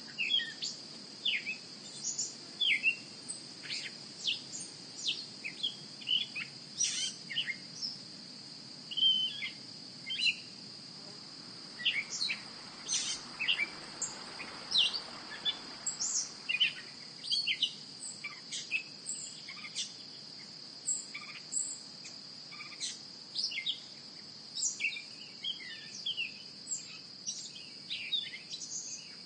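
Small birds chirping in quick, irregular short calls over a steady, unbroken high-pitched insect drone.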